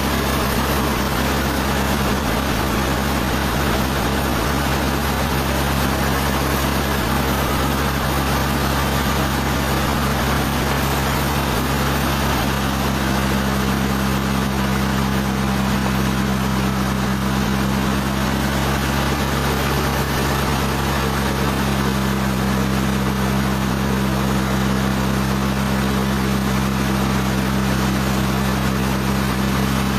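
Sawmill machinery running steadily: a constant low mechanical hum with an even hiss over it.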